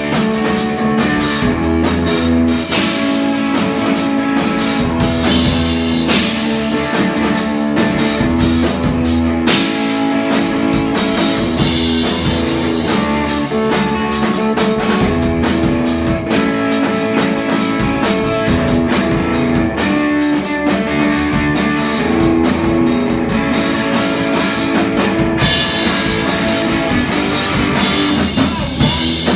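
Live rock band playing: guitar over a drum kit keeping a steady beat.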